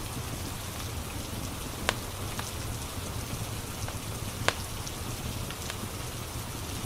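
Steady rain falling, layered with the crackle of a wood fire, with two sharp pops standing out, about two seconds in and near the middle.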